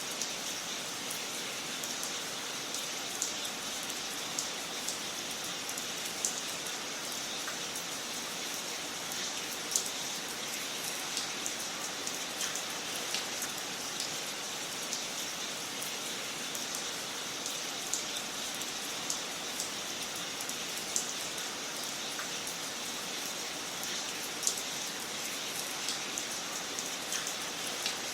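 Wood fire burning in a fireplace: a steady crackling hiss, with sharp pops at irregular intervals about every one to three seconds.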